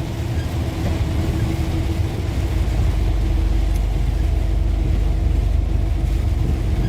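Steady low rumble of a tractor-trailer's diesel engine and road noise heard inside the cab at highway speed, with tyre hiss from the rain-soaked road. The rumble grows louder about two and a half seconds in.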